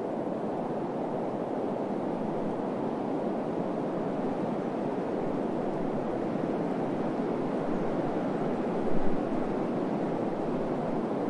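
Steady desert wind, an even rushing noise that slowly swells, with a brief low buffet of wind on the microphone about nine seconds in.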